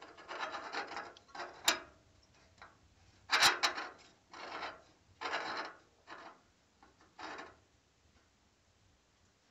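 The lower air damper slide of a Thorma Verona TOP stove-fireplace being pushed closed: a series of about seven short scraping strokes, the loudest with a sharp clack about three and a half seconds in. Closing it cuts the air supply to the fire.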